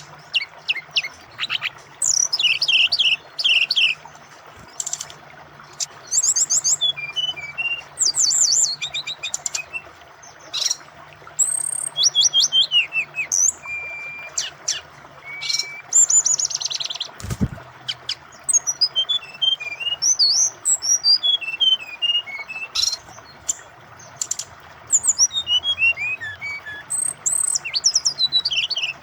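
Brown-chested jungle flycatcher (SRDC) singing a varied, fast song of downward-slurred whistles, rapid trills and short held notes, over the steady rush of flowing water. A single low thump about 17 seconds in.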